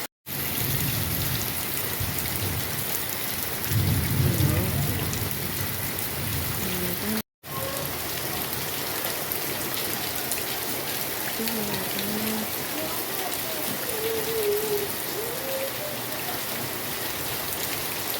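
Heavy rain pouring steadily, with a louder low rumble about four seconds in. The sound cuts out briefly twice.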